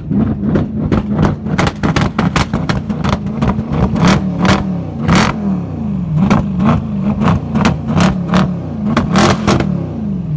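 Mercedes-AMG V8 exhaust with the engine note rising and falling in repeated revs, about once a second later on. Many sharp crackles and pops come through it.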